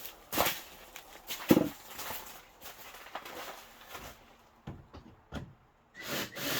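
Irregular knocks and clicks of handling work: two louder knocks in the first two seconds, a few lighter clicks later, and a denser clatter near the end.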